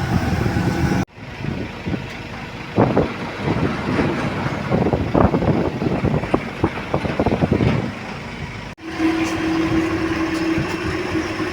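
Heavy truck engine running. About a second in the sound breaks off abruptly, and a stretch of irregular knocks and clanks follows. Near the end it breaks off again and gives way to a steady engine hum.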